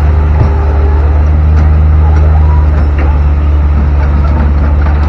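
Excavator's diesel engine running steadily close by, a loud low hum with a few faint clicks over it.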